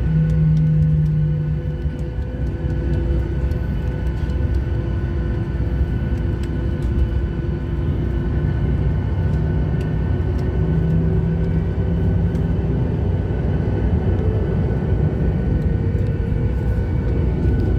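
Airliner cabin noise on the ground before takeoff: a steady low rumble from the engines, with a few steady engine tones, one of which swells and fades twice.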